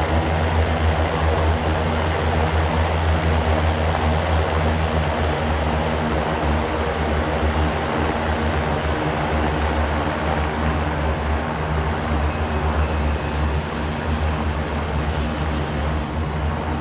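Propeller aircraft engine running steadily with a low, even drone, easing slightly toward the end.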